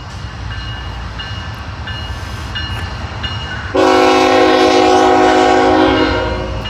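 Diesel locomotive air horn sounding one long chord about two and a half seconds long, starting a little before the middle. Under it runs the steady low rumble of a train moving.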